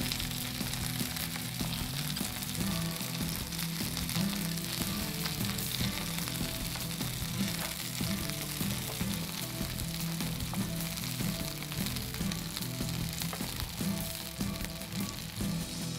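Skewered chicken chullu kababs sizzling steadily as they fry in oil in a pan, with soft background music underneath.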